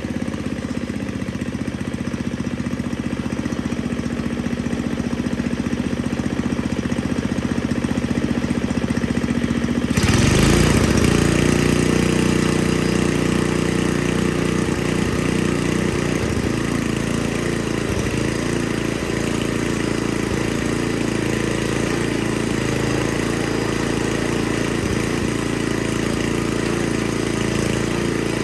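Snowblower's Tecumseh 5 hp single-cylinder engine running after a no-start repair; it gets louder about ten seconds in, then keeps running steady.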